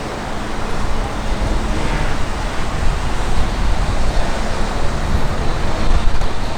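GWR 2800 class 2-8-0 heavy goods steam locomotive 2857 running, a loud continuous rumble and rush of noise that grows a little louder after the first second.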